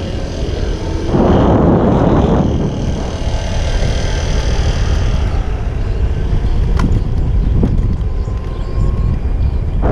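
Street traffic and wind rumble picked up by a bike-mounted action camera riding through city traffic: a steady low rumble, with a louder rush of noise about a second in and a couple of short clicks near the end.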